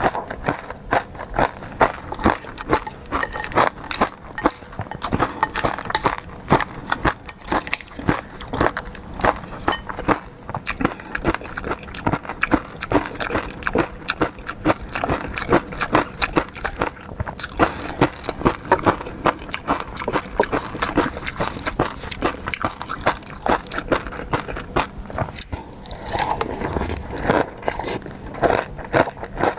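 Close-miked eating of seafood: continuous chewing and biting, a dense run of sharp wet clicks and smacks.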